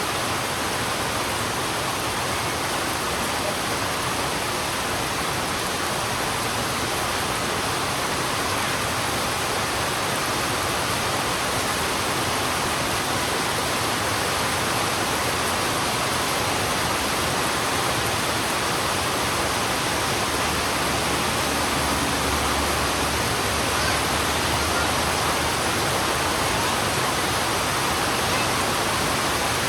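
Heavy rain pouring onto a road: a dense, steady hiss with no let-up.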